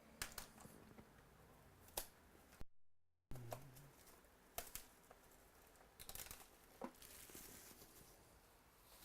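Faint tearing and crinkling of a trading-card pack wrapper being opened, with scattered sharp clicks from the packaging and cards being handled.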